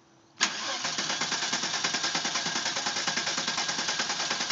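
Turbocharged VR6 engine in a Volkswagen Corrado, run on a MegaSquirt ECU, starting for the first time: the sound begins suddenly about half a second in and carries on as a steady, rapid pulsing.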